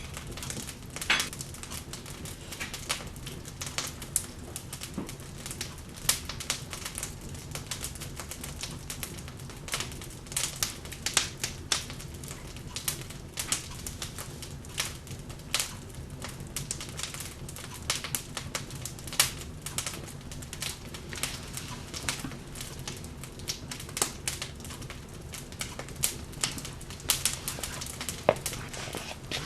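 Wood logs burning in a fireplace, crackling with irregular sharp pops and snaps, a few each second.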